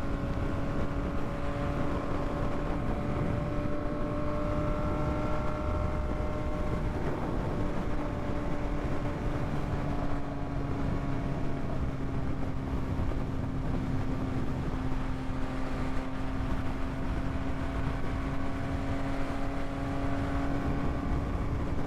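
Yamaha MT-09's inline three-cylinder engine running at a steady, nearly constant pitch while the motorcycle cruises, over a continuous rush of wind and road noise.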